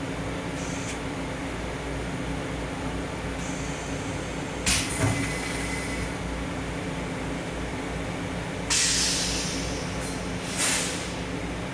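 Steady hum inside a Long Island Rail Road M7 electric railcar, with two sharp knocks about five seconds in and two bursts of hissing air near the end.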